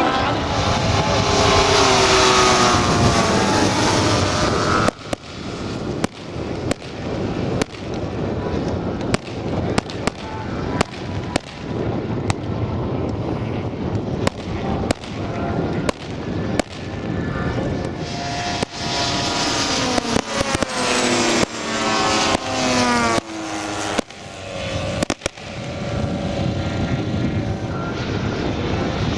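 Pyrotechnic charges going off in a long, irregular string of sharp bangs, one or two a second, for about twenty seconds. The engines of large-scale RC model warbirds are heard passing low, falling in pitch as they go by at the start and again around two thirds of the way through.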